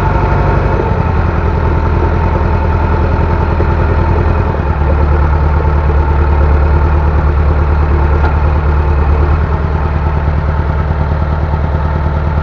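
Bulldozer diesel engine running steadily and loudly. Its low, deep note grows heavier from about five seconds in and eases back after about nine and a half seconds.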